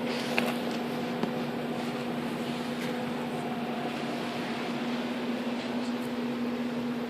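A steady machine hum: one constant low tone over an even hiss, with a single faint click about half a second in.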